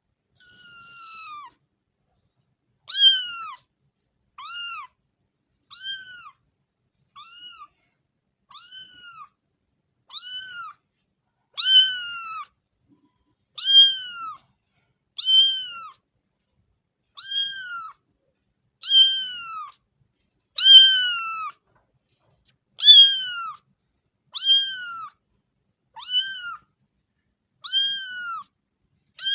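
A cat meowing over and over, about eighteen high-pitched meows, each rising then falling in pitch, at roughly one every one and a half seconds.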